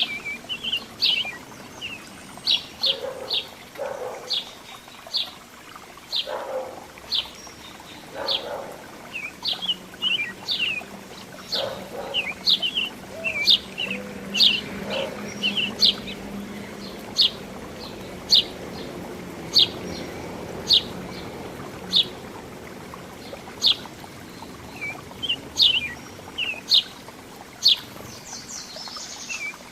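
Small birds chirping: a steady series of short, high chirps, about one or two a second, with a few lower calls mixed in during the first half.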